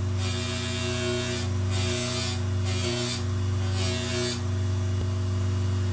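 Small high-speed power polishing tool running steadily with a motor hum, as a knife blade is worked against it in repeated passes. A hissing scrape swells and fades with each pass, about once a second.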